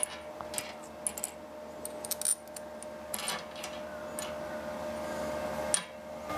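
Irregular light metallic clicks and taps of tools and metal parts being handled, with a faint steady hum underneath.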